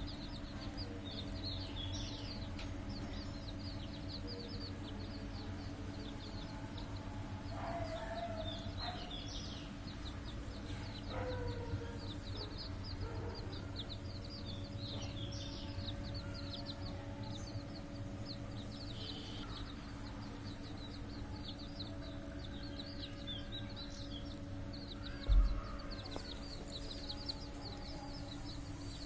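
Small birds chirping in quick, constant high calls, with a few lower fowl calls now and then over a steady low hum. A single sharp thump sounds about 25 seconds in.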